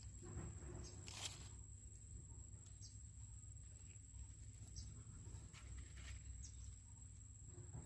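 Faint outdoor ambience: a low steady hum and a thin steady high whine, with a few short, high chirp-like sounds spaced a second or two apart.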